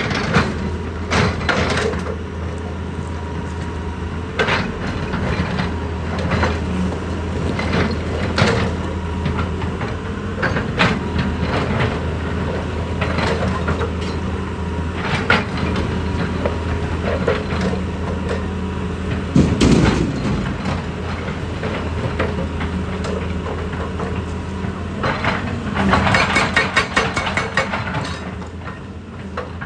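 A heavy machine's engine running steadily, with scattered sharp knocks and cracks of rock or metal striking. Near the end comes a few seconds of rapid rattling.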